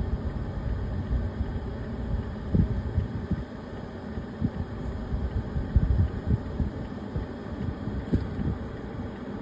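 Garbage truck engine running with a steady low rumble and irregular low thumps.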